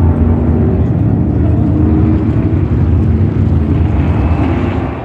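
NASCAR Cup Series stock cars' V8 engines running at speed on the track: a loud, steady, deep rumble.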